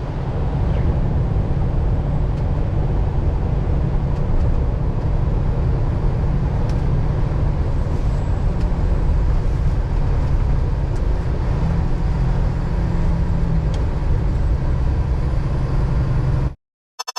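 Steady low engine and road rumble heard from inside a semi-truck's cab while driving, cutting off suddenly near the end as a short pulsing tone begins.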